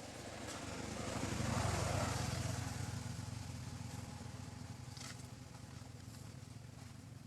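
A motor vehicle passing by: its engine hum and road noise swell to a peak about two seconds in, then slowly fade away.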